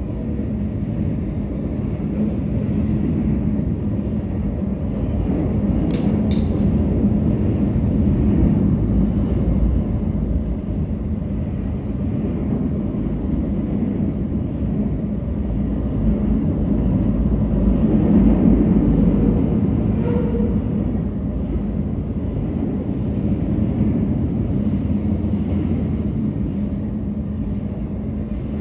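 A train rumbling steadily, with a low hum throughout and a few sharp clicks about six seconds in.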